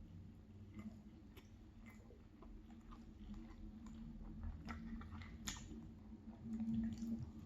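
A person chewing a mouthful of egg-and-sausage bagel close to the microphone, with small wet mouth clicks scattered throughout and a short louder low hum a little before the end.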